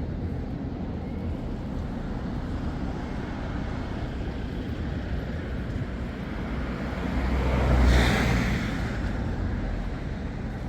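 Road traffic: a steady low rumble of vehicles, with one vehicle passing close by, swelling and then fading about eight seconds in.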